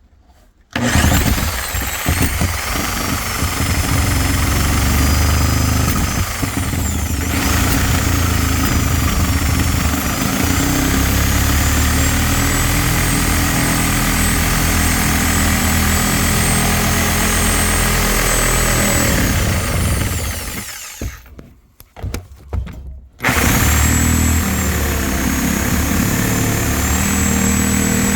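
Reciprocating saw (Sawzall) running with a steady motor whine as it cuts open a wall to reach a bee swarm. It winds down about two-thirds of the way through, stops for a couple of seconds, then starts cutting again.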